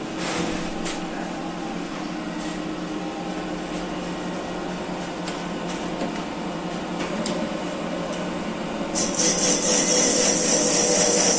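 Factory machinery running with a steady hum and scattered clicks. About nine seconds in, a louder high-pitched hissing whine starts up and holds, like a power tool or machine motor at work.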